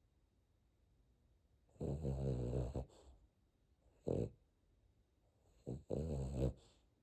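Boston terrier puppy snoring in deep sleep: two long, rattling snores about four seconds apart, each about a second long, with a short breath sound between them and a brief one just before the second snore.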